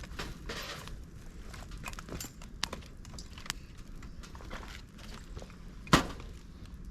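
Campfire of dry bamboo, twigs and leaves burning in a fire stand: scattered crackles and snaps throughout, with one loud sharp pop about six seconds in.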